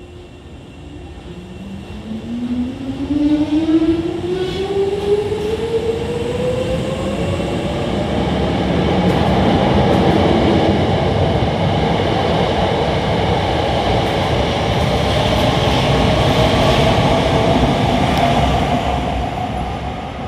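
Hankyu 6000 series electric train pulling away: the traction motor whine rises steadily in pitch as it gathers speed, over a growing rumble of wheels on rail. A few sharp clatters come about three to five seconds in, and the train is loudest through the middle before easing off near the end.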